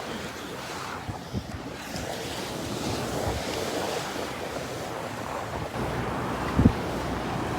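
Ocean surf washing on the beach, with wind buffeting the microphone. A brief low thump about two-thirds of the way through.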